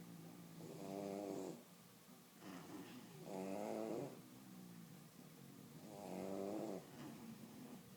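Sleeping bulldog snoring: three loud snores about two and a half seconds apart, with softer breathing between them.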